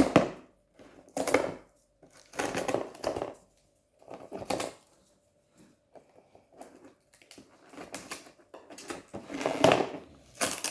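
Packaging of a Kinetic Sand set being handled and pulled at to open it, in a run of irregular crinkling and rustling bursts with short pauses between them; the package is hard to get open.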